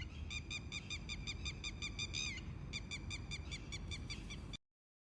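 Lapwing calling: a fast series of short, shrill notes, about four a second, over a low background rumble, cutting off suddenly about four and a half seconds in.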